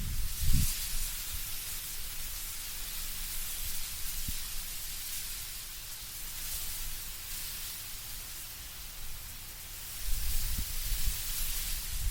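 Wind blowing through autumn trees, the leaves rustling as a steady soft hiss. Low gusts rumble briefly near the start and build again near the end.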